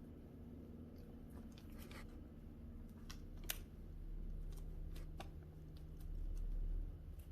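A cat eating wet food in gravy: scattered wet clicks and smacks of chewing and licking, the sharpest about three and a half seconds in, over a low steady hum.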